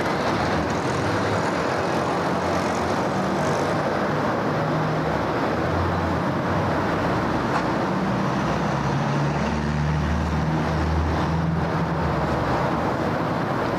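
City street traffic: a steady wash of tyre and engine noise from passing cars, with a deeper engine hum that grows strongest in the second half.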